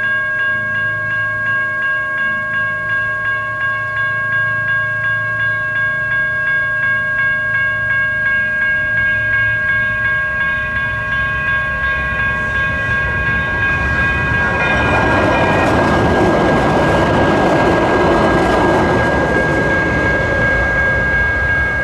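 Railroad crossing's GS Type 1 electronic bell ringing steadily and repeatedly. From about two-thirds of the way in, a CAF light rail train passes through the crossing with a rising rush of wheel and rail noise, which becomes the loudest sound before easing off near the end.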